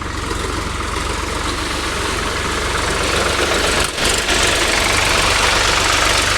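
Tractor diesel engine running steadily, with an even low throb of its firing and a brief dip in level a little before four seconds in.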